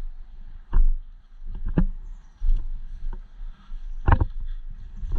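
Slow, uneven footsteps with rustling of clothing and gear as an airsoft player creeps along; one heavier step or thump about four seconds in.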